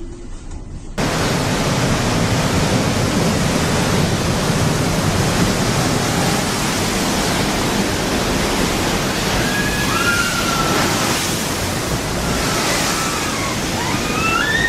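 Loud, steady rush of storm wind and breaking waves, starting abruptly about a second in. A few faint high cries rise and fall near the end.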